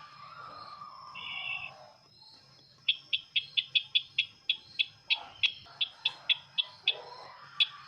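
Calls of the bird known locally as sisintar ladang: a falling note about a second long, a short buzzy note, then from about three seconds in a quick run of sharp high ticks, about four a second, ending with a lone tick near the end.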